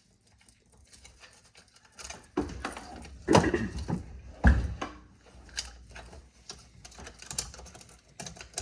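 Chainsaw chain clicking and rattling as it is fitted around the bar and sprocket and turned by hand, with two louder knocks midway.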